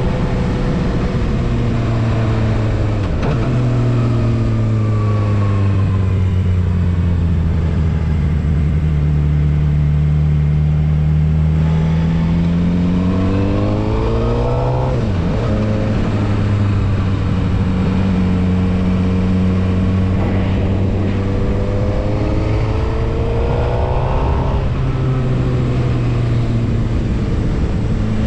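Suzuki GSX-R750 inline-four engine heard on board while riding. Its pitch eases off a few seconds in and holds steady, then climbs as it accelerates and drops sharply at a gear change about halfway. It climbs and drops again at another shift near the end.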